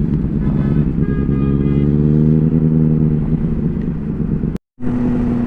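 Inline-four sport motorcycle engine running at riding speed, its revs rising a little about two seconds in. The sound drops out completely for an instant about four and a half seconds in.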